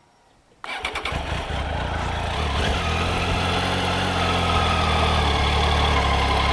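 Triumph Tiger 800's three-cylinder engine running steadily, starting abruptly about half a second in.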